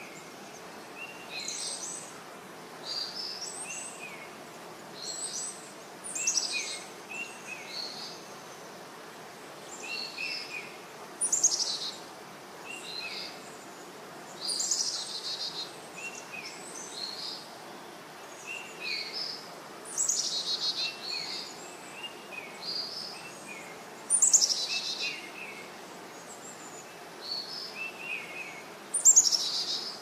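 Birds singing and calling: short chirps repeat every second or so, with louder, fuller phrases every four to five seconds.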